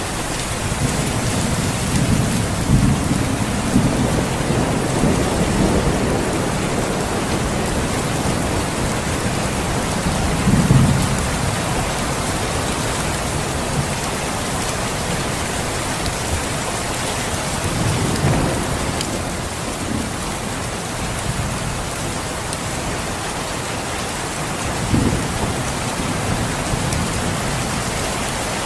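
Steady, heavy rain falling, with several low rumbles of thunder: a longer one near the start, then shorter ones about a third, two thirds and most of the way through.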